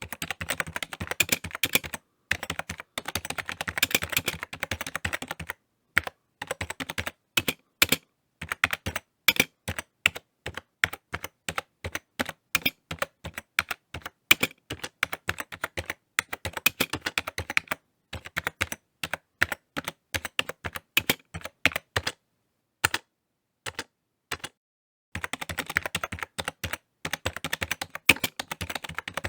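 Typing on a computer keyboard: fast runs of key clicks with short pauses between bursts, and a longer pause of a few seconds late on.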